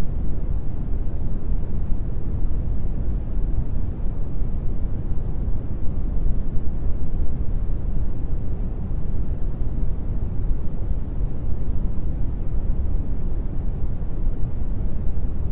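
Steady brown noise: a deep, even rumbling hiss, strongest in the bass and fading towards the treble, unchanging throughout.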